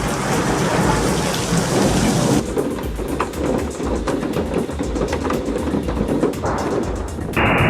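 Thunderstorm: heavy rain with a continuous low thunder rumble. The sound changes abruptly about two and a half seconds in.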